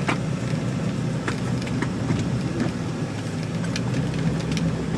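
Jeep TJ driving along, its engine and road noise making a steady low drone inside the cab, with a few faint clicks.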